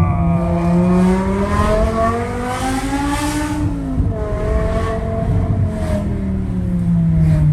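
BMW E60 M5's V10 with a straight-piped exhaust and no catalytic converters, under way and revving. The note rises for about three and a half seconds, drops sharply about four seconds in, then holds and slowly falls away.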